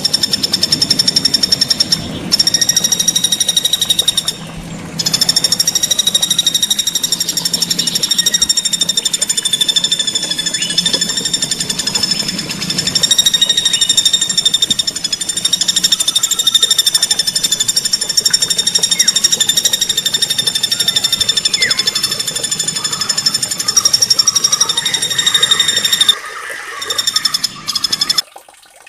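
Small songbird singing a high, very rapid rolling trill in long runs, broken by short pauses about two and four seconds in and a longer gap near the end.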